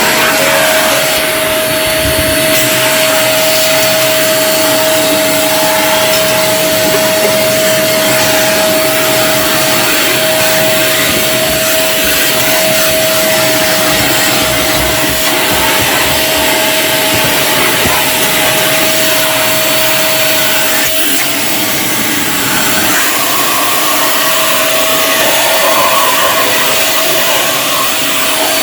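BACOENG 1200 W ash vacuum cleaner running steadily, a loud rush of air under a high steady whine, sucking up shavings from a CNC machine. About two thirds of the way through there is a click, and the whine fades for a few seconds before it comes back.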